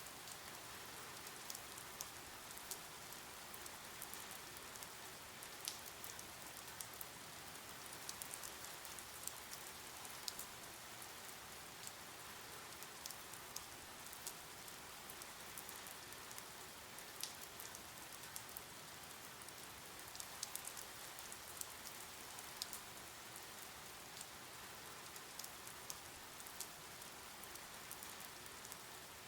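Steady rain: a soft, even hiss with many scattered sharp ticks of drops striking a surface.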